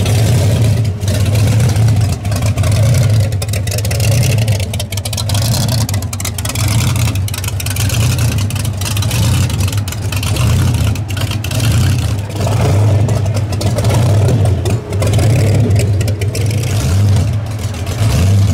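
331 cubic inch Hemi V8 with a Weiand 6-71 supercharger and dual Holley carburetors rumbling at low speed, its low pulsing note steady and loud throughout as the hot rod moves off.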